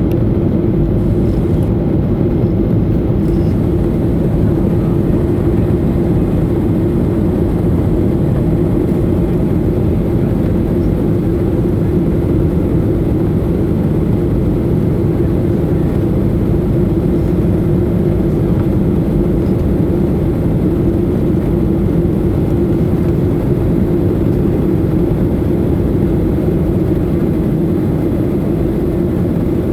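Boeing 737-800's CFM56 jet engines running at a steady, loud level, with a constant hum under the noise and no rise or fall in pitch.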